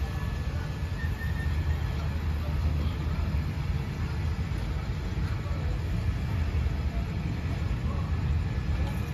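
Train of passenger coaches rolling slowly through the station: a steady low rumble without distinct wheel clicks.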